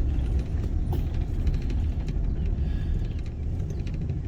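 Steady low rumble of a car driving on a highway, engine and road noise heard from inside the cabin.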